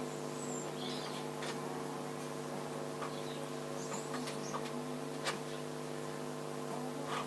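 Birds chirping now and then over a steady background hum, with a few light clicks.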